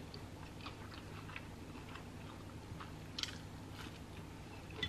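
Quiet close-up eating sounds: soft chewing with scattered small wet mouth clicks, one a little sharper about three seconds in, as a hash brown dipped in ketchup is eaten.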